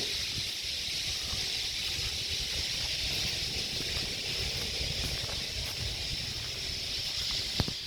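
Outdoor ambience: a steady high hiss with wind rumbling on the microphone, and one sharp click near the end.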